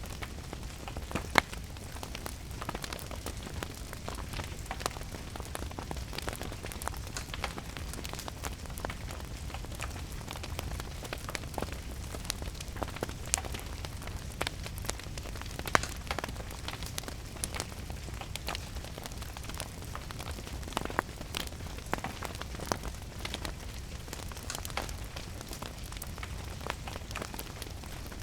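Wood fire crackling, with irregular sharp pops and snaps, over a steady hiss of rain and a low rumble.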